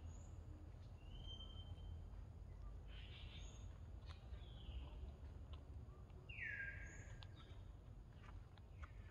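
Faint bird calls over a low steady rumble: a few short whistled notes, the loudest a downward-sweeping whistle about six and a half seconds in, with a brief high chirp repeating every few seconds.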